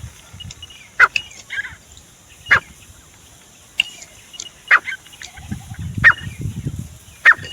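Grey francolin (desi teetar) calling: five loud, sharp call notes about every one and a half seconds, with fainter notes between them. A low rumble sits under the calls about two-thirds of the way in.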